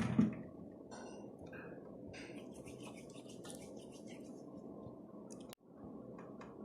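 Faint rustling and light clicking of hands pressing and shaping rice-flour dough into rings on a plate, over a steady low hum. A short thump right at the start is the loudest sound.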